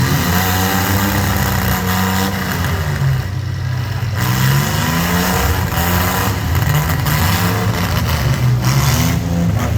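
Engines of demolition derby mini trucks and SUVs revving, repeatedly rising and falling in pitch as the cars manoeuvre.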